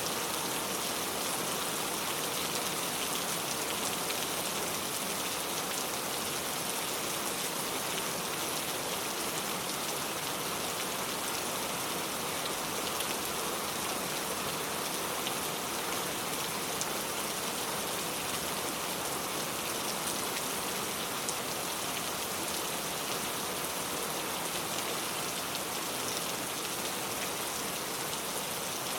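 Steady rain falling, a constant hiss with many small drops pattering on surfaces.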